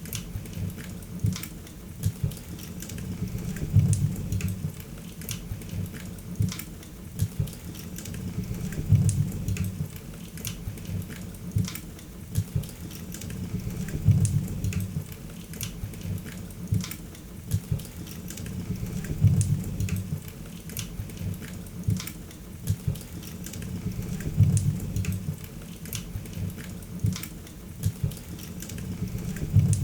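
Wood fire crackling in a fireplace, with many small sharp pops and snaps over a low rumble of flame that swells about every five seconds.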